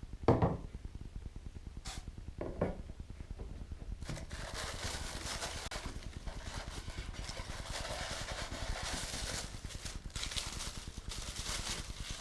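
Model crane parts and their packaging being handled: two light knocks, then from about a third of the way in a steady crinkly rustling of packing material as a part is unwrapped.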